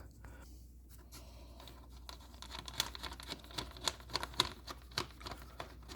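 Light, irregular clicks and scratches of the plastic air filter housing cover and its screws being handled, starting about two seconds in.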